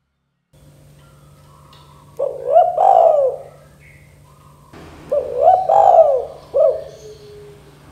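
Spotted dove (tekukur) cooing: two phrases of several quick rising-and-falling coo notes, a couple of seconds apart.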